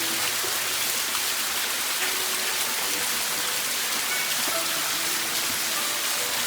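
Steady hiss of falling water, like rain, with a few faint held tones beneath it.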